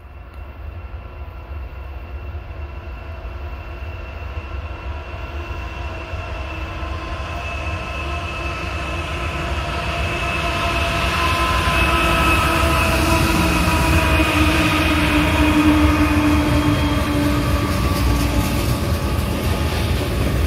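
Union Pacific diesel locomotives approaching, with a steady engine drone and rumble that grow louder throughout. The drone's tones drop slightly in pitch over the last few seconds as the train draws near.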